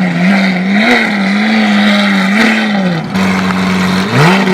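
Lamborghini engine with a modified aftermarket exhaust held at raised revs, its pitch swaying up and down with light throttle blips. Near the end the revs drop briefly and climb back up.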